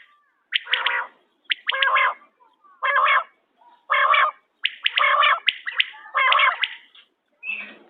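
Quail (bater) calling over and over, a short, harsh call about once a second, each opening with a few sharp clicks: a call played to lure quail for hunting.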